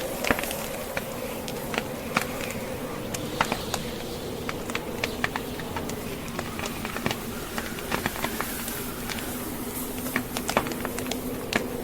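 Log fire crackling, with irregular sharp pops and snaps over a steady rushing of snowstorm wind.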